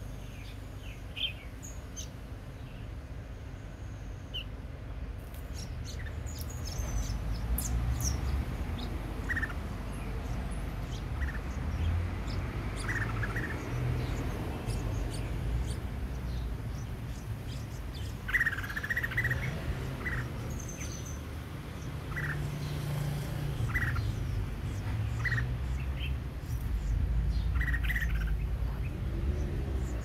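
Small birds chirping: short, high chirps every second or two, sometimes several in quick succession, over a steady low rumble.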